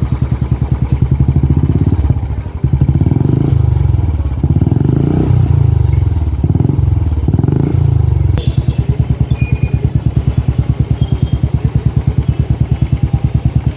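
Single-cylinder Royal Enfield Bullet running on an aftermarket BS6 exhaust, with a loud, evenly pulsed exhaust beat at idle. The throttle is blipped several times in the middle, each blip a short surge, and then the engine settles back to a steady idle.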